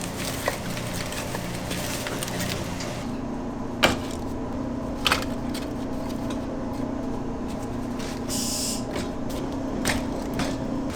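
Kitchen background: a steady machine hum with a few sharp knocks, and a brief hiss about eight seconds in.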